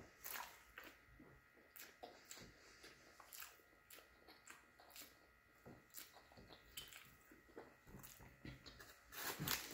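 Faint chewing of a mouthful of chicken sandwich: soft, irregular mouth clicks and smacks, a little louder near the end.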